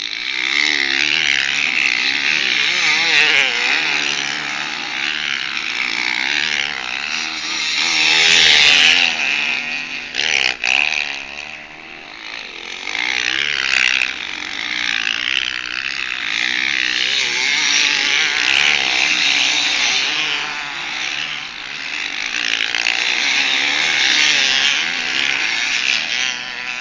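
Motocross bikes racing on a dirt track, engines revving up and down as they pass, loudest about eight seconds in.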